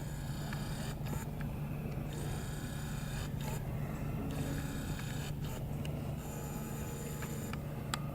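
A camera's autofocus motor whirring in short spells and clicking several times as it hunts for focus, over a steady low hum.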